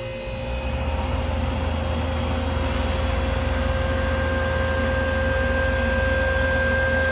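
Ice machine's refrigeration unit running: a steady low hum with a constant whine over it, and a second, higher whine joining about halfway through.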